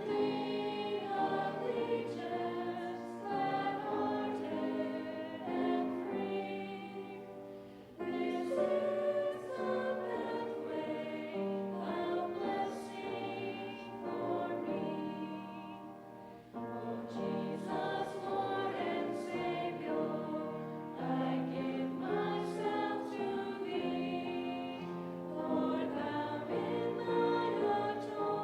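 A small group of voices singing a hymn together, with short breaths between phrases about 8 and 16 seconds in.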